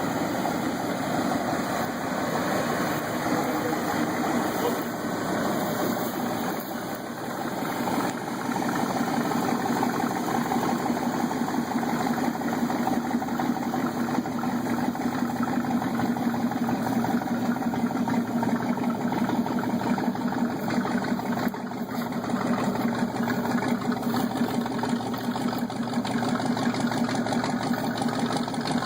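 Lifted truck's engine running at low revs while crawling, a steady drone that strengthens a little about eight seconds in and eases back around twenty-two seconds.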